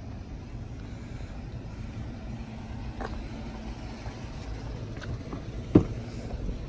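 Chevrolet Silverado pickup idling with a steady low hum, with a few short clicks, the loudest near the end.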